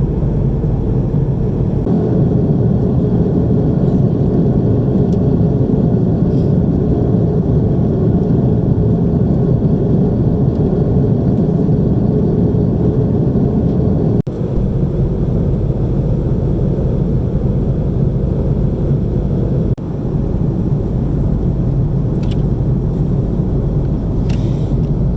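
Airbus A330-300 cabin noise at cruise: a steady, loud rumble of engines and airflow heard from an economy seat, with two brief dips in level a little past the middle.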